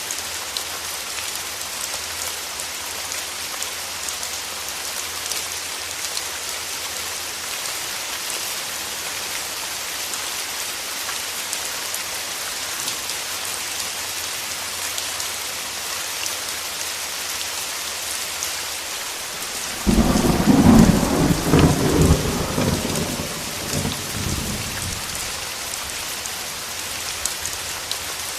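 Steady rain falling, with a loud clap of thunder about two-thirds of the way through that rumbles for several seconds and fades away.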